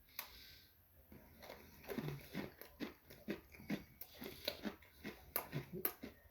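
Close-up chewing of an Oreo sandwich cookie: quiet at first, then quick, irregular crunches from about a second and a half in.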